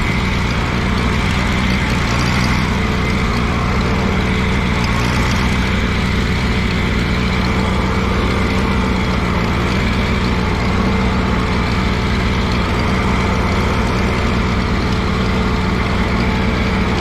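Allis-Chalmers G tractor's small four-cylinder Continental gasoline engine running steadily at low speed while the tractor is manoeuvred in low gear.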